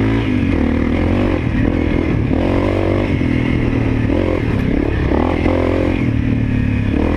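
Honda CRF250L's single-cylinder four-stroke engine being ridden on a rocky trail, the revs rising and falling again and again as the throttle is worked.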